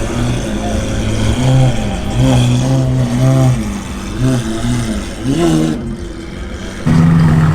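A car engine being revved in a series of short blips, its pitch rising and falling several times, then settling into a steady drone near the end.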